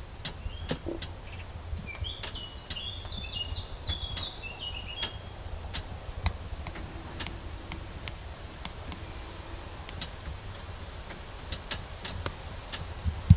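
A small bird sings a quick run of high chirping notes about two to five seconds in, over a low steady rumble and scattered sharp clicks.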